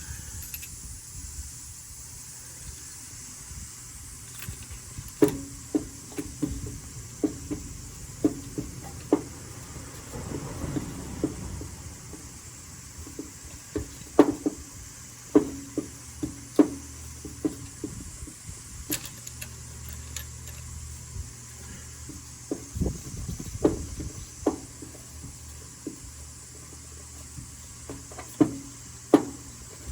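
Scattered, irregular clicks and knocks of hand tools and parts being handled during a spark-plug change, over a low steady hum.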